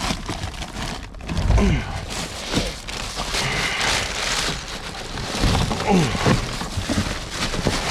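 Rummaging through trash in a dumpster: plastic bags and packaging rustling and crinkling, with many small knocks and clicks of items being shifted.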